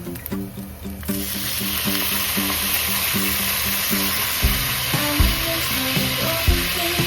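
A frying pan starts sizzling abruptly about a second in, as food goes into the hot oil, and keeps up a steady hiss. The food is most likely a fried egg.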